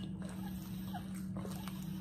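Close mouth sounds of eating fried catfish: chewing, lip smacks and a few soft clicks, over a steady low hum.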